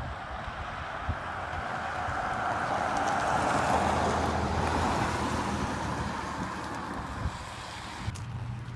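A vehicle driving past: its noise swells to a peak about four seconds in and then fades away.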